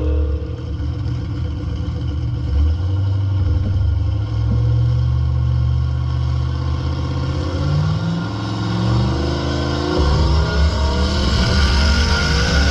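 Car engine running with a low, steady rumble, then revving, its pitch climbing in steps from about eight seconds in.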